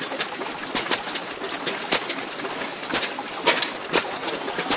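2 hp vertical Fairbanks-Morse Type T hit-and-miss gasoline engine running, with sharp exhaust pops coming roughly once a second at uneven spacing as it fires and coasts.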